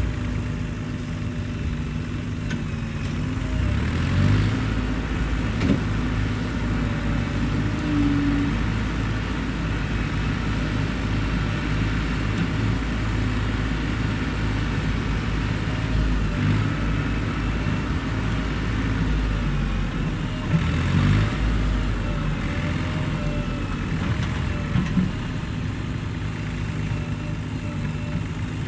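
Diesel engine of a JCB 3DX backhoe loader running steadily while working, its note swelling a few times as it takes load, with a few short knocks.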